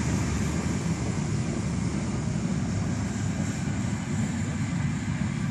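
Passenger coaches of a departing steam-hauled train rolling past, a steady rumble of wheels on the rails.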